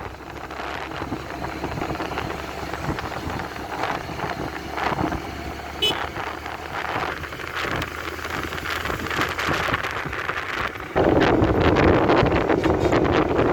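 Road noise from a motorcycle ride with traffic around it. About eleven seconds in, wind blasting the microphone suddenly gets much louder.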